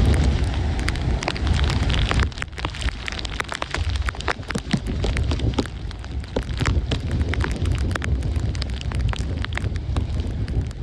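Storm wind buffeting the microphone with a heavy low rumble, which eases about two seconds in, while rain crackles and taps against it in many sharp ticks.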